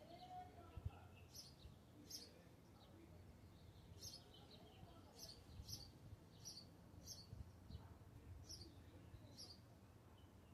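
Faint bird song: short, high chirps repeated about once a second, over a low background rumble.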